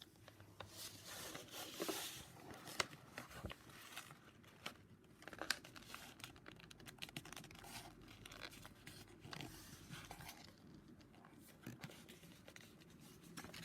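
A sheet of paper being folded and creased by hand: faint, irregular crinkling and rustling.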